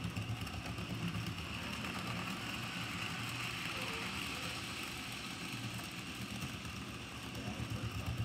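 N scale model train running at full throttle around a loop of track: a steady motor whir with the sound of the wheels on the rails.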